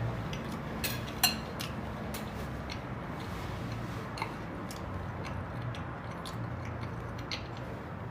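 Quiet eating sounds: a few small clicks and taps from chewing and a utensil on the dish, the sharpest about a second in, over a steady low hum.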